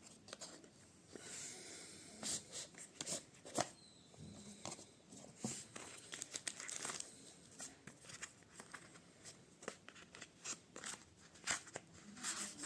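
Product packaging being opened and handled by hand: faint, irregular tearing, crinkling and rustling with scattered small clicks and taps.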